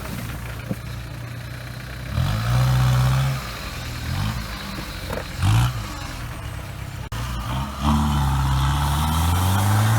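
Off-road SUV engine revving in bursts over a low idle: a held rev about two seconds in, two short blips, then a longer rev that climbs and falls back near the end.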